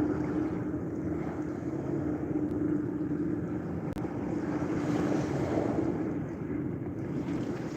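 Surf washing on a beach in a continuous rushing wash, with a steady low hum underneath. A brief click and dropout comes about four seconds in.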